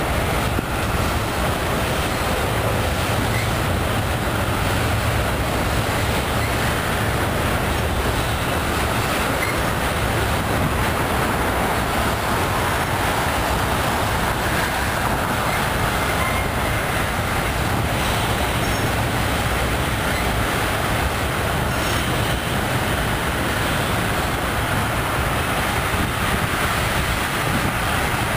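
Freight train rolling across an elevated railway bridge, its cars' wheels on the rails making a steady, continuous noise.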